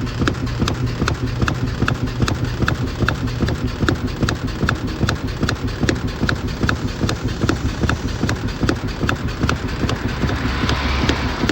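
Samsung washing machine running with a rapid, regular clicking knock, several strikes a second, over a low steady motor hum: the fault that has the washer 'going crazy'. A short hiss comes in near the end.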